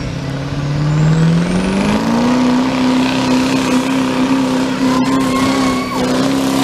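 Truck engine revving, its pitch climbing over about two seconds and then held steady at high revs, with a thin whistle rising above it as it climbs.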